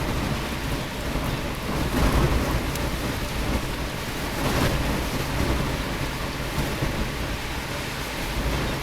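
Typhoon wind and rain: a steady noisy roar with a heavy low rumble from wind on the microphone, swelling in gusts about two seconds in and again about four and a half seconds in.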